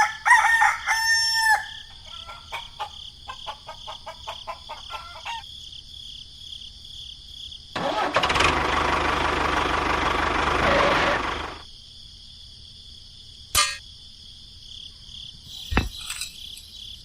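A rooster crows once at the start, followed by a run of quick clicks. Later a loud, steady mechanical noise runs for about four seconds, then two sharp clicks, over a faint steady high-pitched tone.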